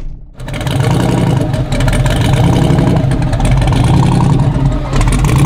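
Twin-turbo LS V8 engine of a 4WD street truck revving hard for a drag-strip launch, running loud and steady after a brief dip just at the start.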